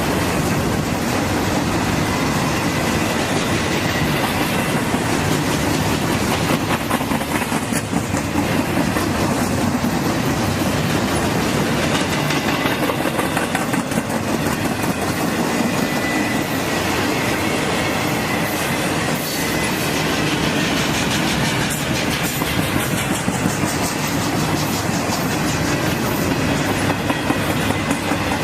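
Train cars rolling past on the rails: a steady rumble of wheels on track with a constant run of rail clicks and a faint thin squeal from the wheels.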